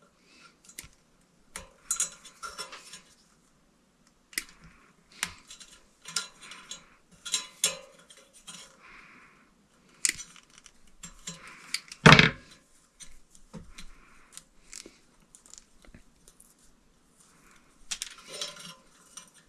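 Intermittent metallic clinks and clatter of ceiling-fan parts and hardware being handled, with short rustles in between and one heavier knock about twelve seconds in.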